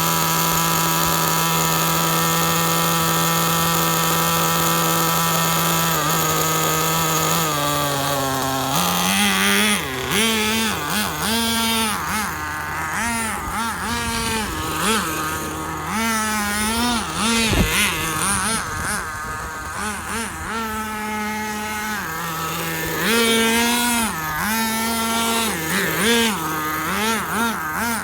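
Small glow-fuel nitro engine of a radio-controlled truck, idling steadily at first, its pitch dropping in two steps, then revving up and down again and again with bursts of throttle as the truck is driven.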